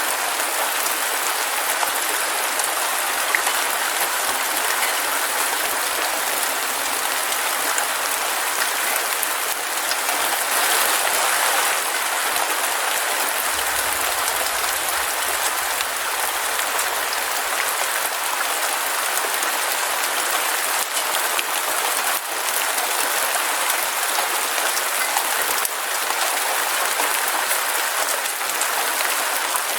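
Heavy rain falling steadily, a dense, even hiss of many drops. A faint low rumble rises under it about halfway through.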